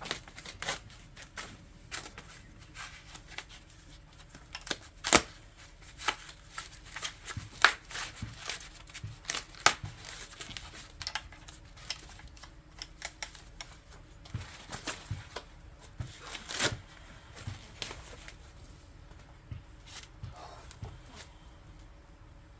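Irregular handling noise: scattered sharp clicks, taps and rustles, with a few louder knocks about five, eight, ten and seventeen seconds in.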